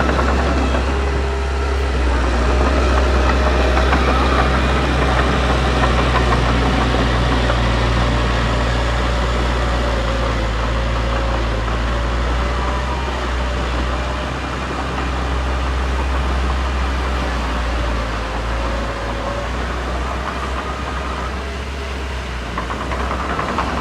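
Heavy diesel engine of earthmoving machinery running steadily, with a deep, even rumble and some wavering higher whine above it.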